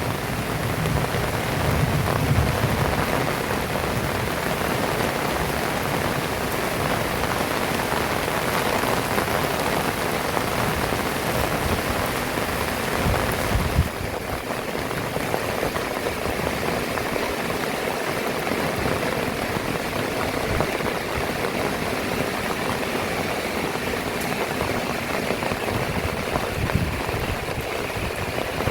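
Heavy rain falling steadily, a dense continuous hiss of drops on surfaces. A low rumble, likely thunder, dies away in the first few seconds, and the rain thins slightly about halfway through.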